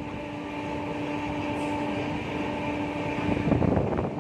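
Passenger train running along the track, heard from on board: a steady hum over rolling noise, with a louder clatter of wheels over rail joints about three and a half seconds in.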